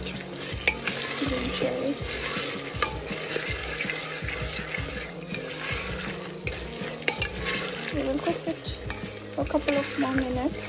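A spatula stirring and scraping chopped carrots, leeks and green chillies frying in oil in a deep enamelled pot. The vegetables sizzle steadily, with frequent clicks of the spatula against the pan.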